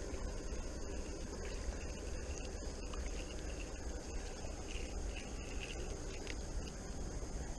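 Steady outdoor ambience: a constant high insect buzz with a few faint short chirps in the middle, over a steady low rumble.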